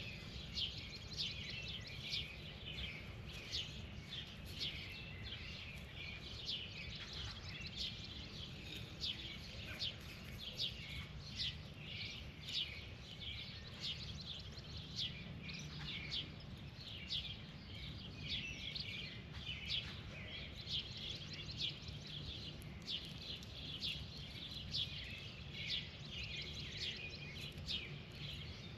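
Birds chirping continuously, with several short, high chirps a second overlapping, over a steady low background rumble.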